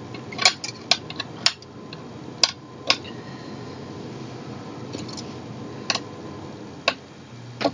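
Scattered light clicks and metallic clinks from handling the chair's parts and screws with an Allen key while assembling an office chair, several close together in the first few seconds and then one about every second.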